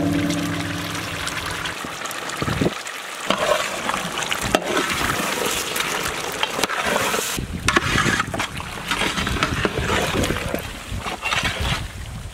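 Marinated chicken cooking in ghee and juices in a large pot over a wood fire, sizzling and bubbling, while a long metal ladle scrapes and knocks against the pot as it is stirred.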